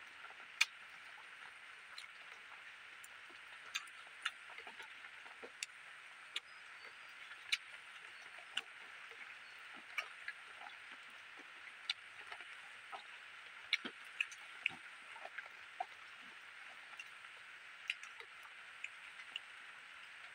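A person eating by hand close to the microphone: chewing and lip smacks as short, irregular clicks every half second or so, over a steady high hiss in the background.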